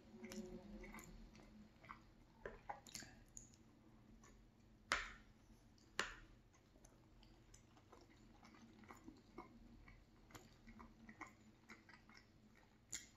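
Faint, close-miked chewing of breakfast sausage and fried potatoes, with small clicks of a metal fork on a ceramic plate, the two sharpest about five and six seconds in.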